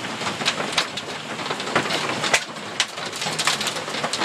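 Heavy hail coming down: a dense, continuous hiss of falling stones, broken by frequent, irregular sharp cracks as individual hailstones strike hard surfaces.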